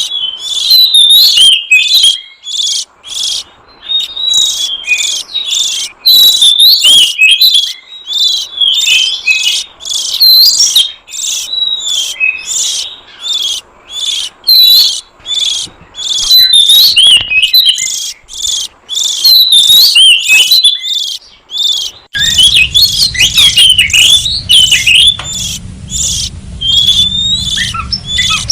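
Oriental magpie-robin (kacer) singing loudly: rapid runs of clear, varied whistled phrases in repeated bursts with short pauses between them. A low hum joins about three-quarters of the way through.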